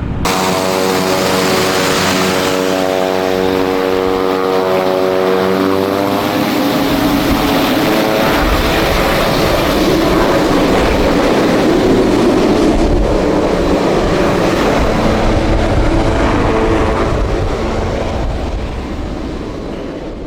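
TBM940's Pratt & Whitney PT6A turboprop engine and propeller running: a steady tone with evenly spaced overtones that rises slightly in pitch over the first few seconds, then gives way to a louder rushing propeller noise that builds and slowly fades near the end.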